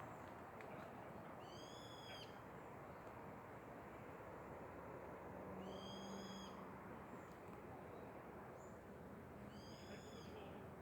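A bird in the forest gives three short, high, clear calls about four seconds apart, faint over a steady background hiss.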